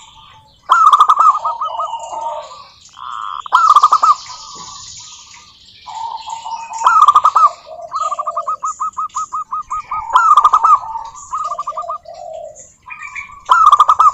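Zebra doves (perkutut) singing: loud staccato cooing phrases that start about every three seconds, one of them trailing into a rapid run of even notes near the middle, with fainter higher chirping behind.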